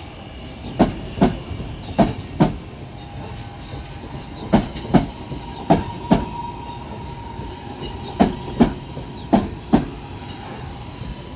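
A train moving slowly through the station, its wheels clicking over rail joints in pairs about half a second apart, as a bogie's two axles cross each joint, over a steady rumble with a faint steady whine.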